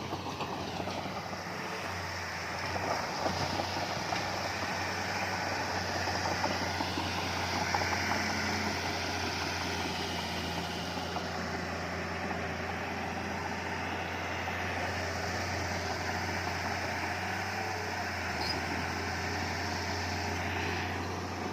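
Heavy earthmoving machinery's diesel engine running steadily under load, with a couple of brief knocks about three and eight seconds in.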